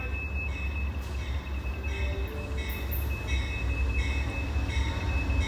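Passenger train approaching, with a bell ringing about two to three times a second from about two seconds in, over a steady low rumble.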